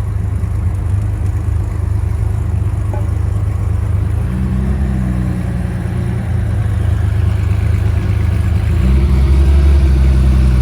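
A car engine running at idle close by, a steady low exhaust drone that gets louder about nine seconds in.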